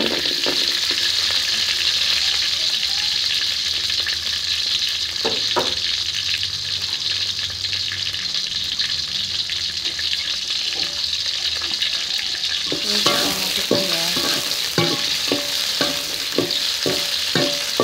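Shallots and chilies sizzling steadily in hot oil in an aluminium wok. From about thirteen seconds in, a metal spoon stirs them, scraping and clicking against the pan.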